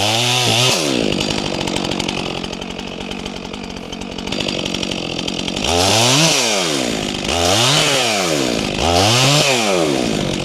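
Stihl MS400C two-stroke chainsaw running at idle, blipped up and back down briefly at the start, then revved up and let fall back to idle three times in a row in the second half.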